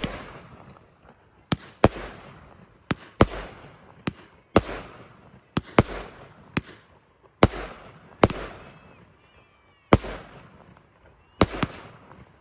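Display fireworks going off: about fifteen sharp bangs at uneven gaps of a fraction of a second to a second and a half, each followed by a rolling echo that dies away.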